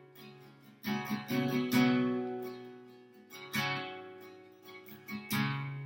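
Acoustic guitar strumming slow chords, each strum ringing out and fading before the next.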